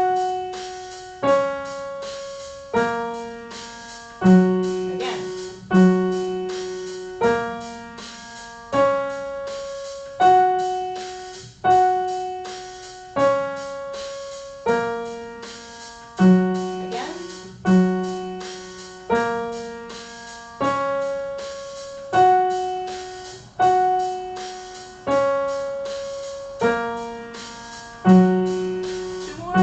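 Piano playing a slow, even succession of notes and chords, about one every second and a half, each struck and left to ring and fade.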